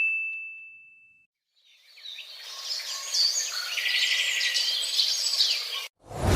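Several small birds chirping and twittering together for about four seconds, cut off abruptly near the end. Before them, the ring of a single bright ding fades out, and just before the end a loud, deep sound begins.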